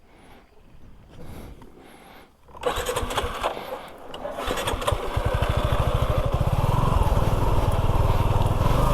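After a quiet start, a motorcycle engine starts suddenly about two and a half seconds in. It then runs steadily, building in level with an even firing pulse.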